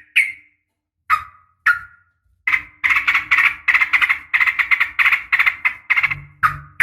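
Yellow-vented bulbul (trucukan) calling, as a female calling a male: a few sharp single notes, then a fast chattering run of about four to five notes a second, ending in more single notes.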